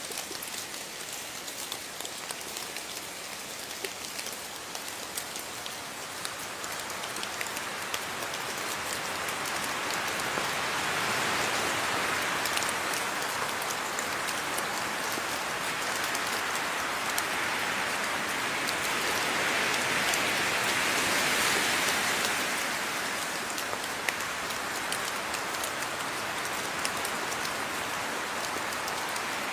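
Steady rain falling, with individual drops ticking sharply through the hiss. The downpour swells heavier about a third of the way in and again about two-thirds through, then eases.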